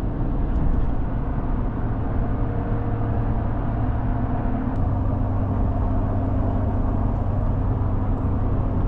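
Truck driving: a steady engine hum and road noise, the engine note dropping slightly about halfway through.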